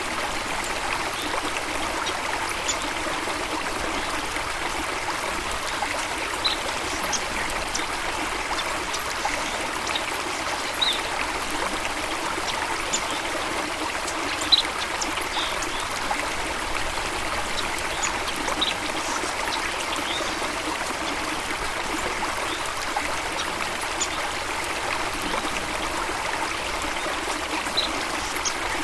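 Stream water flowing and trickling steadily, with brief high-pitched pips scattered through it.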